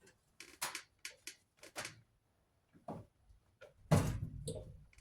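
Short clicks and knocks of hands working at a wiring plug inside a clothes dryer, trying to pull the connector loose. A quick run of clicks comes first, then a louder knock with a brief rattle about four seconds in.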